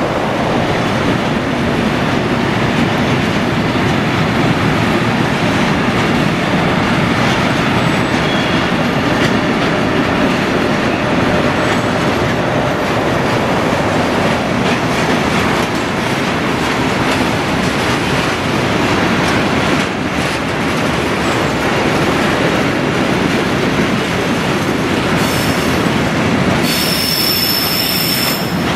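Freight train wagons rolling along the rails in a marshalling yard, a loud, steady rumble with a high-pitched wheel squeal near the end.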